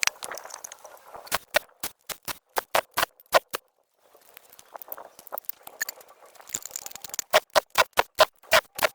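A run of sharp, irregular taps and clicks, several a second, with a brief silent break just before four seconds in and a quicker run of taps near the end.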